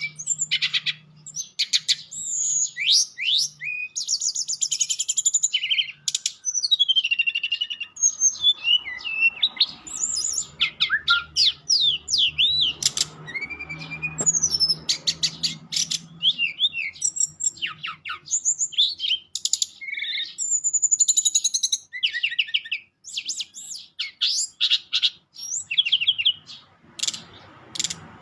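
Brown-chested jungle flycatcher (sikatan rimba dada coklat) singing continuously: a long, varied stream of high-pitched chirps, sweeping whistles and fast rattling trills, delivered in quick phrases with brief pauses.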